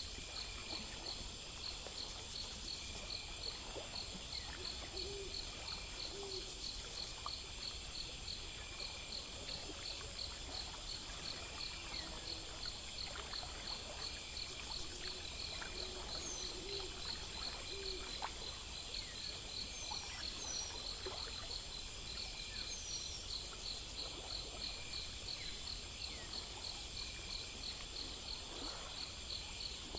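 Night nature ambience: crickets and other insects chirping steadily in a rapid even rhythm, with an owl hooting several times in the middle stretch.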